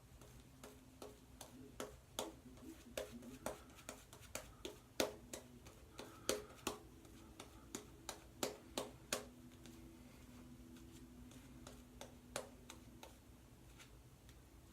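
Bevel safety razor with a Sputnik blade taking short strokes across lathered stubble: a quick, irregular run of crisp scraping clicks that thins out near the end. The blade is worn and starting to pull.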